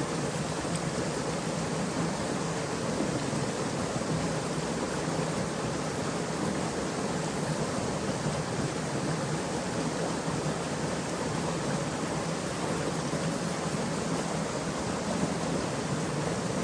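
Steady rush of a flowing stream, an even wash of water noise with no distinct splashes or knocks.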